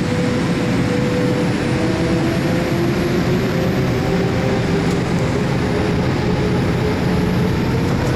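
Boeing 787-8's Rolls-Royce turbofan engines running at high power, a loud steady rush over a low rumble, with whining tones that slowly rise in pitch as the engines spool up.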